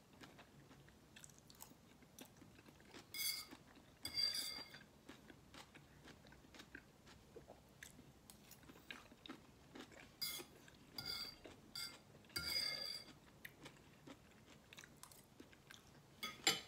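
Close-miked chewing of noodles, with small wet mouth clicks throughout. About six times, a short ringing clink of a metal fork against a ceramic plate.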